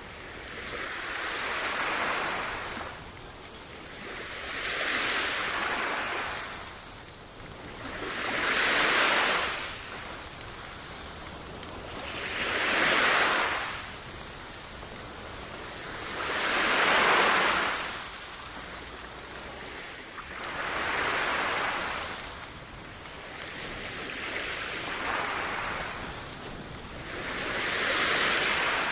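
Sea waves washing onto a beach, one after another about every four seconds, each swelling up and fading back.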